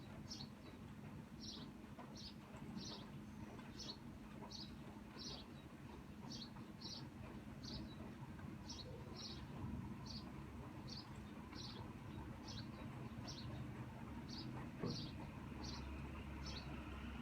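A small bird chirping over and over: short high chirps, often in pairs, about two a second, over a faint steady hiss.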